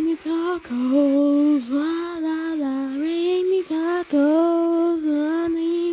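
A high, child-like singing voice carrying a melody in held notes that slide between pitches, with short breaks between phrases.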